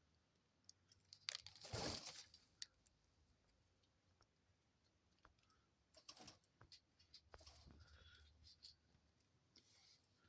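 Faint scattered clicks and taps of a dove's beak pecking at birdseed on the floor, with a louder brief rustle about two seconds in.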